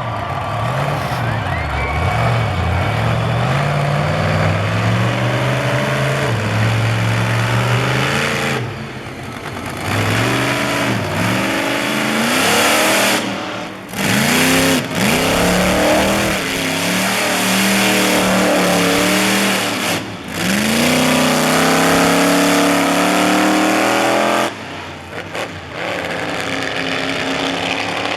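Monster truck engine revving hard over and over, its pitch climbing and falling with the throttle, with a few brief drops in level where the throttle is let off.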